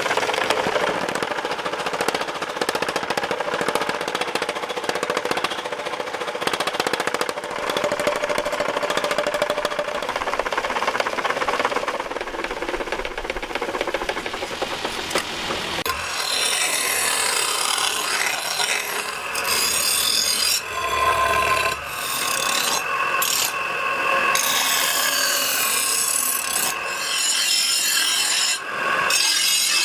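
Metal carving tool scraping and rasping across leather-hard clay in continuous strokes. The scratching turns brighter about halfway through.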